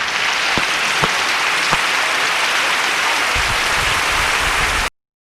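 A firework hissing and crackling steadily, with a few sharper pops, cutting off abruptly near the end.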